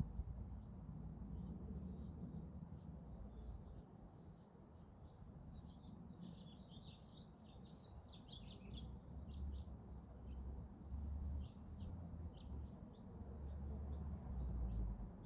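Small birds chirping and twittering, with a dense run of quick chirps about halfway through, over a faint steady low rumble.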